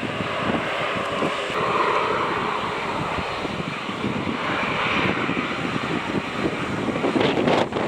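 Aircraft engine noise, a steady rushing drone whose tone slowly climbs higher, with wind buffeting the microphone and a few knocks near the end.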